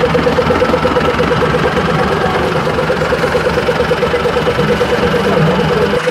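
Tractor engine running steadily, with a fast, even pulsing note.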